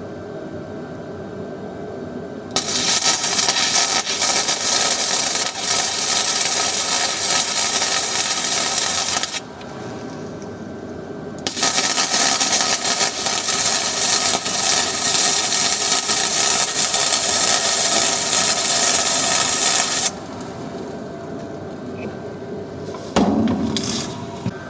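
Welding on the steel chassis: two runs of steady, loud welding arc noise, roughly seven and nine seconds long, each starting and stopping abruptly with a short pause between, over a steady background hum. A clatter near the end.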